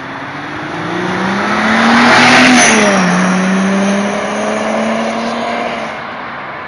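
Turbocharged car engine accelerating, its pitch climbing to the loudest point about two seconds in. The pitch then drops sharply near three seconds in as the revs fall, and the engine runs on steadily, fading slowly. A brief falling high whistle comes as the revs drop.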